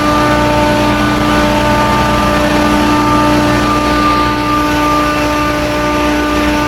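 Carrier 30XW water-cooled screw chiller running: a loud, steady machine hum with a few steady tones over it.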